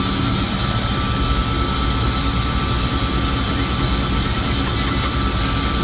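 Steady drone of a helicopter's engine and rotor heard from inside the cockpit, with a constant high whine running through it.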